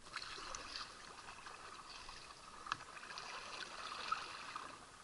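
Faint trickling and lapping of water around a kayak, with a couple of small knocks.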